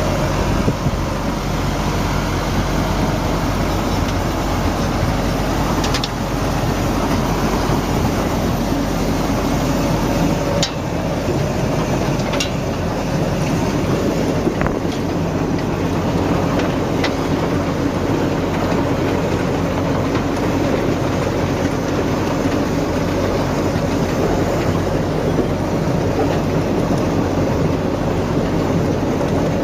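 A large engine or machine running steadily, with a few sharp clicks over it.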